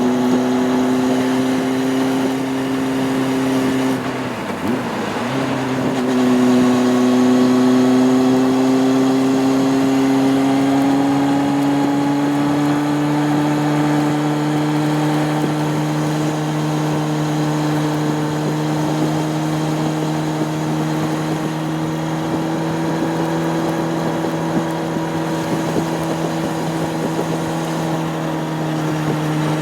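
Honda CB600F Hornet's inline-four engine running under way, heard from on the bike. Its note breaks off briefly about four seconds in, then comes back slightly lower and climbs slowly and steadily.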